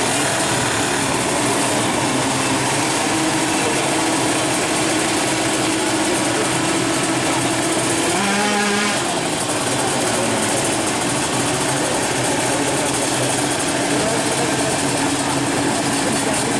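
Two-stroke drag-racing motorcycle engines running steadily amid crowd chatter, with a brief change in engine pitch about eight seconds in.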